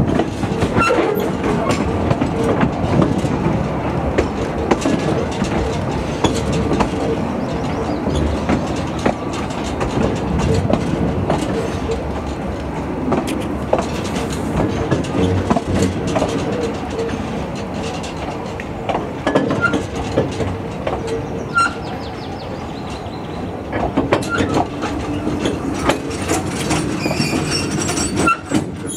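Narrow-gauge passenger carriages running along the track, heard from aboard: a steady rumble of wheels on rail, with frequent clicks over the rail joints. Through roughly the first half there is a faint steady wheel squeal as the train takes the curves.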